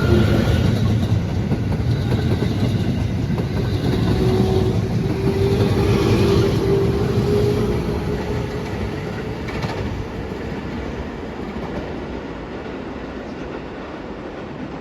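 Train running on the rails, wheels clattering over the rail joints with a steady rumble, a faint held tone in the middle, and growing gradually quieter over the second half.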